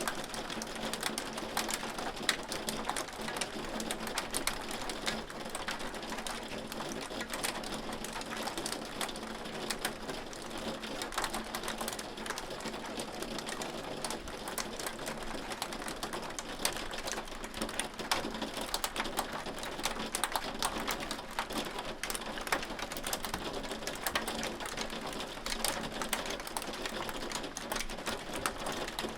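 Hailstones striking a hard surface in a steady, dense patter of sharp ticks and clicks.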